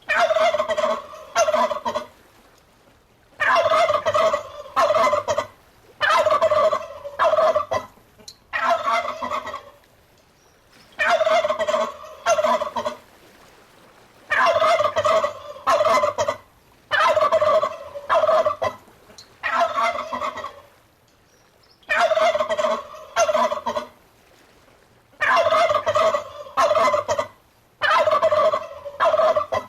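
Turkey gobbling over and over, a loud rattling gobble about every two to three seconds, around ten in all.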